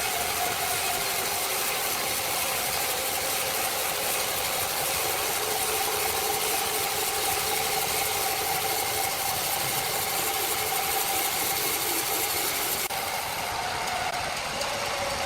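Sawmill machinery running steadily, a constant mechanical noise with a steady hum over a hiss; the hiss drops suddenly about thirteen seconds in.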